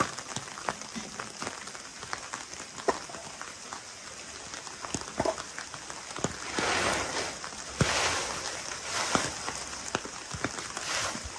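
Rain falling: a steady hiss with scattered sharp drips and taps. A few louder swells of hiss come in the second half.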